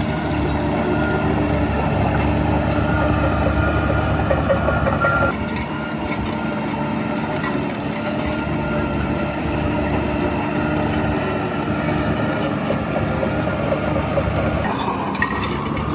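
Heavy earthmoving machine's diesel engine running under load. It eases off suddenly about five seconds in, runs steadily lower for a while, then picks up again near the end.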